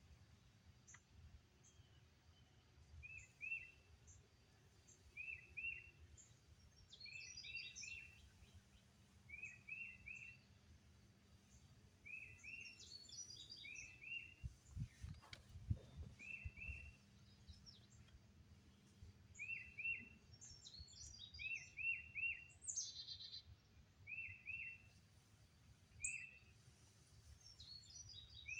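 Wild songbirds calling outdoors: one bird repeats a short double chirp every second or two, while another gives higher, quicker twittering phrases. A brief low rumble comes about halfway through.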